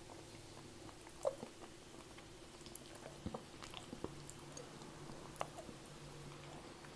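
Faint chewing and mouth sounds of someone eating soft pasta in tomato sauce, with scattered small clicks of a metal spoon against the plastic cup.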